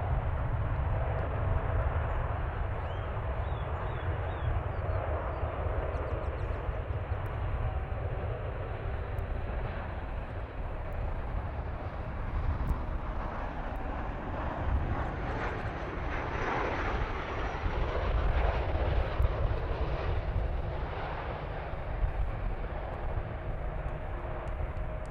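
Jet airliner engines rumbling continuously as a plane passes, swelling toward the later part, with a faint high whine that drifts slightly in pitch. Wind buffets the microphone.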